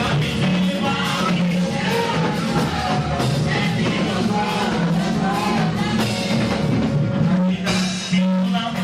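Lively church praise music: voices singing over a band with a drum kit keeping a steady beat.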